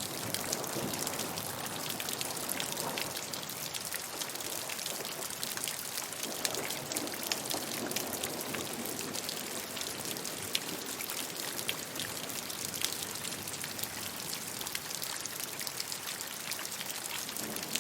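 Steady rainfall: dense patter of raindrops hitting a surface, with many small sharp drop ticks over a constant hiss.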